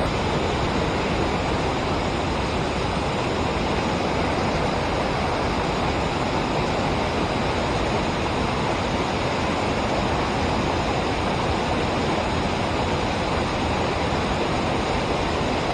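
Steady rush of river water pouring over a dam, an even, unbroken noise with no letup.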